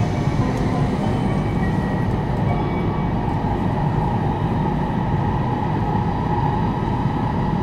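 Cabin noise of an E2-series Shinkansen train running: a steady low rumble of wheels and running gear, with a whine that grows louder about halfway through.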